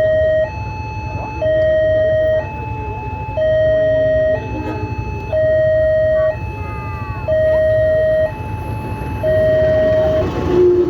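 Two-tone electronic warning signal by a train door, alternating between a lower and a higher note about once a second, over the low rumble of the train.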